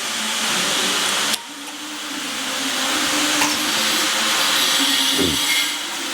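A motor-driven machine running steadily, a whirring hiss over a low hum. The sound drops abruptly about a second and a half in, then builds back up.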